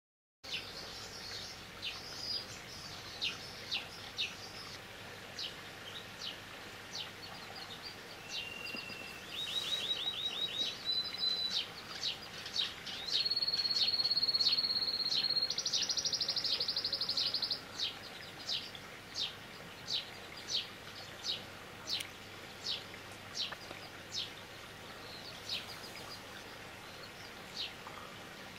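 Small songbird calling, a short high chirp repeated over and over. From about a third of the way in to past halfway, a run of high trills and a held high whistle joins in, the loudest part.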